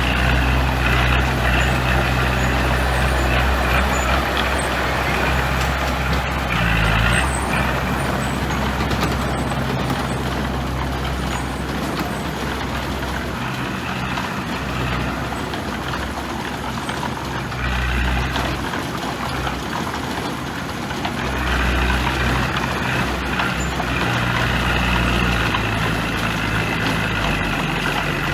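Heavy diesel engine of earthmoving equipment running under load, its low note shifting in pitch and loudness several times, with a broad rushing noise over it.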